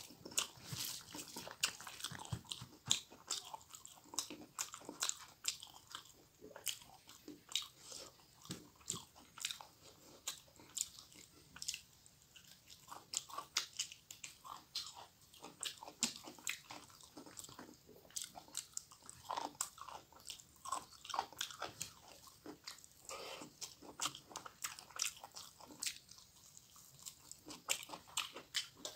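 A person chewing mouthfuls of rice and fried food, with irregular crisp crunches and wet mouth clicks.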